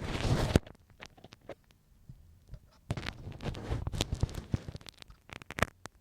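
Ear pick scraping and scratching right against the microphone. A loud scrape comes at the start, then a quieter stretch, then from about three seconds in a run of crackly scrapes and sharp clicks.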